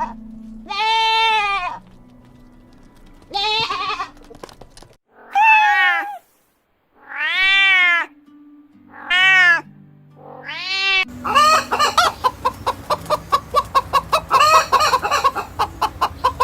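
An animal calling: six separate drawn-out calls, each rising and falling in pitch, then about a second before the last third a fast run of short repeated calls, about four a second. Quiet background music plays underneath.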